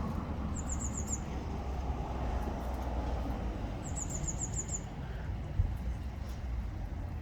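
Eurasian blue tit singing two short, high trills of rapid repeated notes, the second longer, over a steady low background rumble.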